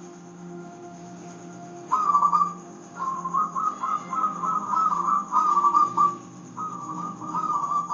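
Zebra dove (perkutut) singing: phrases of rapid, staccato cooing notes, starting about two seconds in and running in several bursts, over a soft, steady low instrumental drone.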